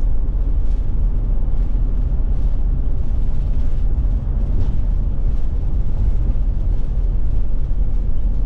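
Steady low rumble of a Forest River Forester motorhome under way at a constant speed: engine and road noise with no revving or gear changes.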